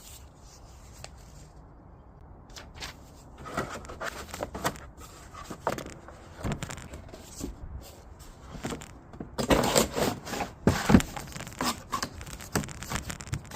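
Irregular clattering, scraping and sharp knocks of hard objects being handled, starting a few seconds in and busiest about ten seconds in.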